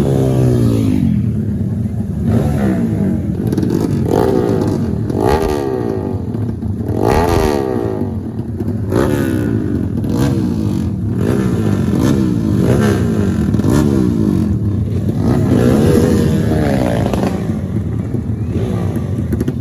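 Racing motorcycle engines revving hard, again and again, each rev rising and falling in pitch every second or two, as the bikes accelerate and shift.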